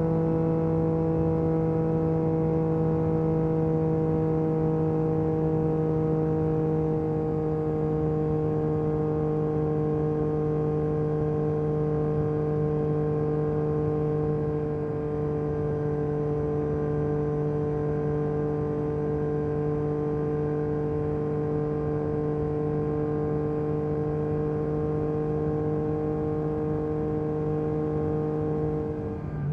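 Yamaha MT-09 SP's 890 cc inline-triple through an Akrapovic carbon racing exhaust, held at steady revs while cruising, the pitch sinking only slightly; right at the end the revs drop as the throttle closes.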